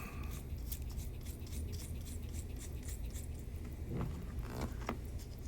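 Faint small clicks and light scrapes of handling at a watchmaker's bench, with tools working on a tiny mechanical watch movement, over a steady low hum. The clicks are most frequent in the first couple of seconds.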